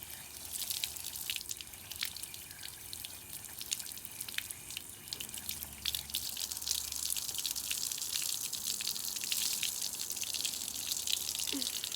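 Water splashing and dripping in many small splashes while a dirty vacuum cleaner part is rinsed and squeezed out.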